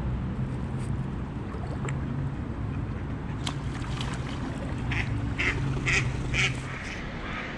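Ducks quacking: a run of about five short quacks roughly half a second apart in the second half, over a steady low hum.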